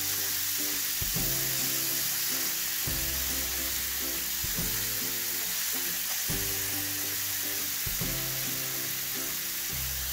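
Marinated chicken pieces sizzling in hot oil on a grill pan, a steady frying hiss. Background music with low sustained chords plays underneath.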